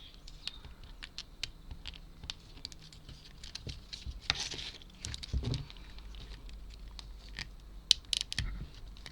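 Small wooden model-kit pieces being handled and pressed into place: light, irregular clicks and taps, with a brief rustle about four seconds in and a few sharper clicks about eight seconds in.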